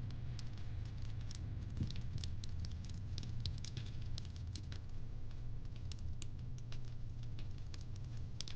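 Wood fire crackling in a fireplace: irregular small pops and snaps, several a second, over a steady low rumble.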